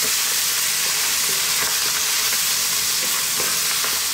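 Chickpea, tomato and onion mixture sizzling steadily in oil in a frying pan, stirred with a wooden spoon that gives a few soft scrapes against the pan.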